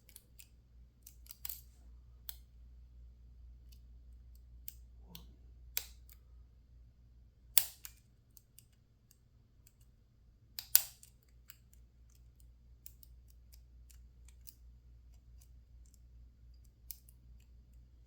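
Sparse small metallic clicks and taps from a lock pick working the pins of a PacLock 410 Pro padlock, with two louder clicks, one about a third of the way in and one just past halfway, over a faint low hum.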